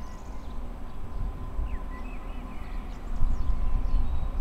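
Distant electric freight train approaching, a low rumble that grows louder about three seconds in, with a few bird chirps.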